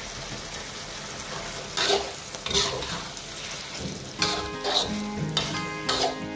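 A black-pepper venison stir-fry sizzling in a metal wok, with the spatula scraping and turning it in several sharp strokes. Background music comes in about four seconds in.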